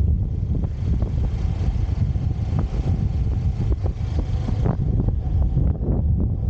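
Motorcycle riding on the road: steady wind rumble on the microphone over the bike's engine and road noise.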